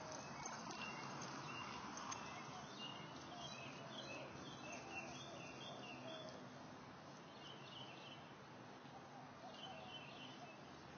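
Birds chirping faintly in short, repeated calls over a steady outdoor background hiss, in clusters through the middle and again near the end.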